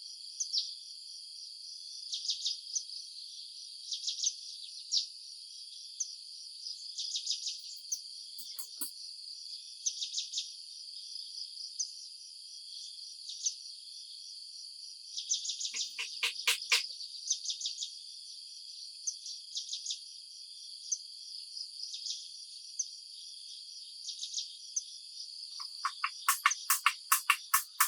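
A chorus of crickets and other insects trills steadily and high-pitched, broken by repeated quick chirps. Louder runs of rapid pulses, about six a second, come from a nearer caller around the middle and again near the end.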